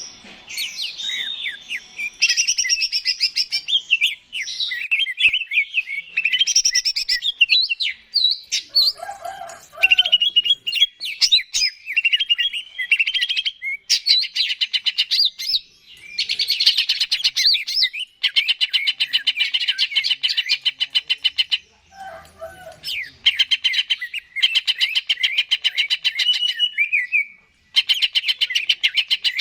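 Cucak ijo (greater green leafbird) singing loudly and continuously: a varied run of whistled, chattering phrases broken by long, fast, buzzy trills, with a couple of brief lower notes in between.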